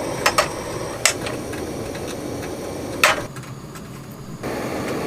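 A steady hiss broken by sharp knocks: two quick ones at the start, one about a second in and a louder one about three seconds in. The hiss drops away for about a second after the loudest knock, then comes back.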